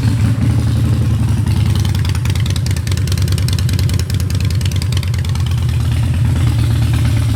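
2011 Harley-Davidson Dyna Wide Glide's air-cooled V-twin engine idling steadily through Vance & Hines drag pipes, a loud exhaust with a fast pulsing beat.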